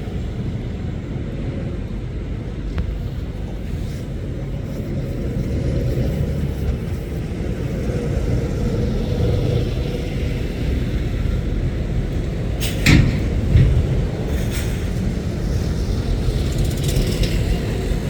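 Heavy lorries' diesel engines running as they pass, a steady low rumble, with two short, sharp loud sounds about thirteen seconds in.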